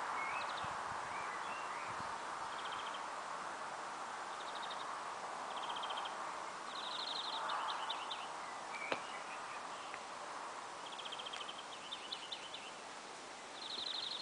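Small songbirds singing on and off, short high trills and chirps, over a steady outdoor background noise. One sharp click about nine seconds in.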